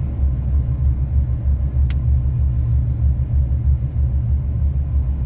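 Steady low rumble of a car's engine and tyres heard from inside the moving car. A single sharp click sounds about two seconds in.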